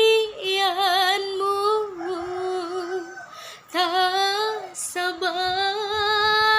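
A woman singing long, held notes with a wavering vibrato in three phrases, with short breaths between them.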